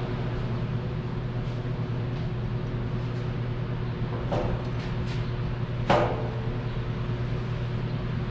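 Vehicle engine running steadily while it pulls a load on a rope, with two sharp knocks about four and six seconds in.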